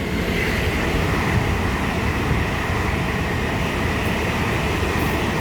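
Two coupled Class 805 trains passing through at speed: a steady rush of wheels on rail and moving air, with a faint high whine.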